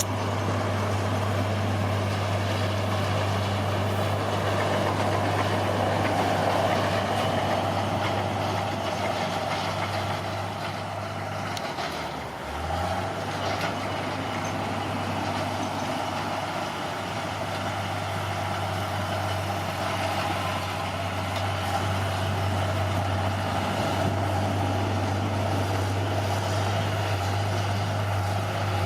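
Diesel engine of heavy earthmoving machinery running steadily under load, with a low, even drone. About twelve seconds in the engine speed briefly drops and then picks back up.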